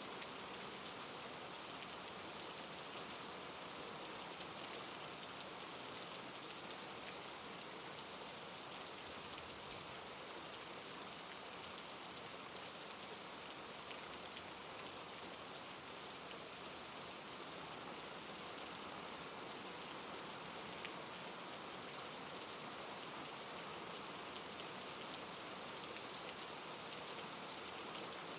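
Soft, steady rain falling on a surface, an even patter of drops without change.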